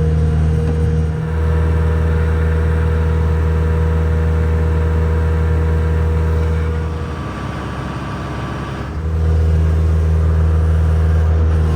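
Heavy diesel engine running steadily under load with a deep drone. It eases off for about two seconds past the middle, then picks up again.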